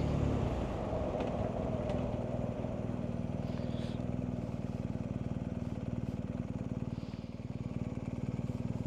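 BMW R1250GS Adventure's boxer-twin engine running at low revs. It eases off in the first couple of seconds and settles into a steady low beat.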